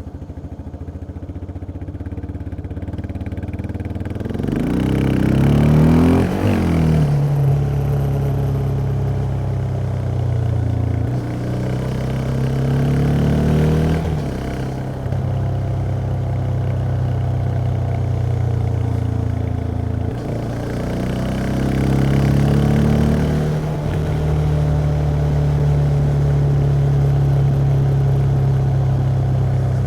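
Yamaha XT 660X's single-cylinder four-stroke engine on its stock exhaust, ridden through the gears. The revs climb and fall sharply at three upshifts, and the engine runs steadily between them.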